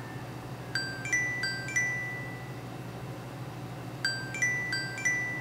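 A short tune of four bell-like chime notes, struck and left ringing, played twice about three seconds apart over a steady low hum.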